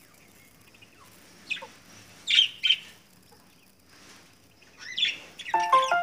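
Cage birds chirping: a few short, sharp chirps about a second and a half and two and a half seconds in, then more near the end. A tune of clear, stepped notes starts over them in the last half second.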